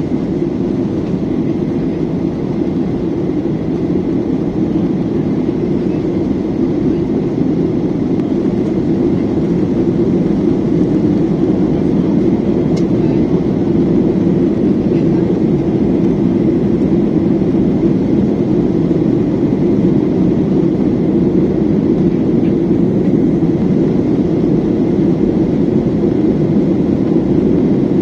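Steady low drone of an airliner cabin in flight, the engines and rushing air heard from inside the cabin. It grows slightly louder about ten seconds in.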